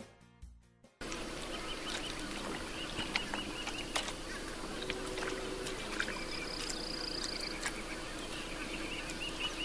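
Guitar music fades out in the first second. Then steady outdoor ambience follows, with a bird calling in runs of short repeated chirps and a few scattered clicks.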